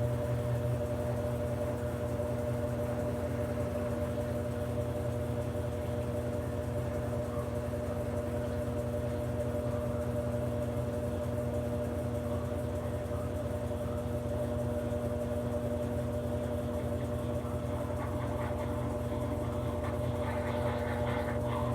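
Brastemp BWK17 17 kg washing machine running with a steady, unbroken motor hum and a few steady tones over it. A rougher, higher-pitched noise joins near the end.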